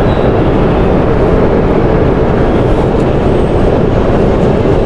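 Shinkansen bullet train pulling out of the station platform, a steady loud running noise.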